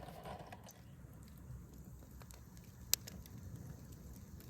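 Campfire crackling faintly over a low, steady rustle, with scattered small pops and one sharp pop about three seconds in.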